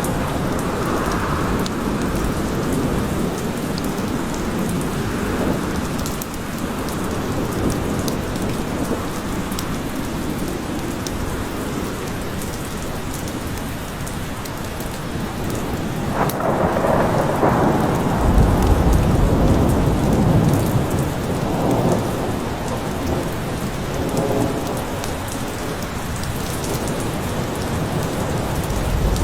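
Steady heavy rain falling in a forest, with thunder rumbling; a louder, deep roll of thunder builds a little past the middle and fades after a few seconds.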